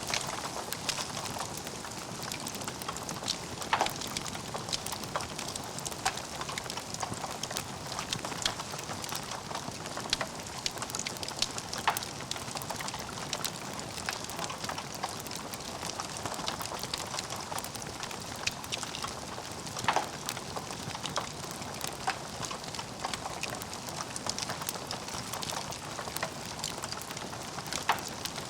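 Logs burning in a fireplace: a steady crackling hiss full of small clicks, with a louder pop about every eight seconds.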